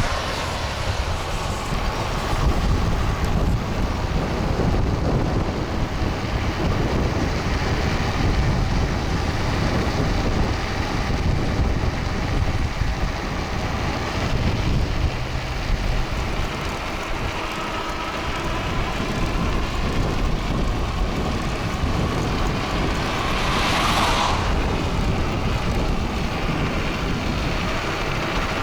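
Wind buffeting an action camera's microphone on an electric fatbike riding at speed, a steady rumble with a faint whine under it. A brief louder rush swells and fades near the end.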